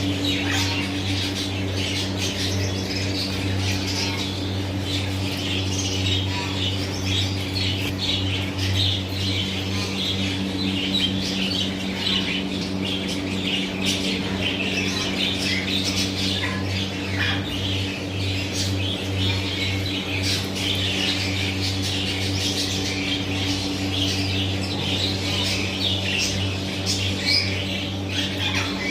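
Many birds chirping and squawking at once, a dense, unbroken chatter of short high calls, over a steady low hum.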